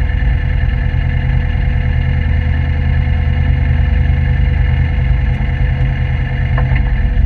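Turbocharged Toyota MR2 Roadster's 1ZZ-FE four-cylinder engine running steadily, with a heavy low rumble.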